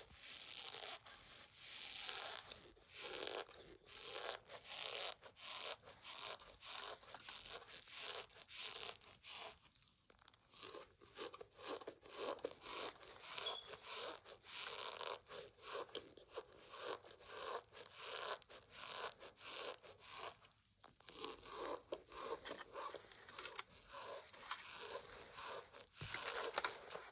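Close-up chewing of a crunchy snack: a quick run of crisp crunches, several a second, with short pauses about ten and twenty-one seconds in.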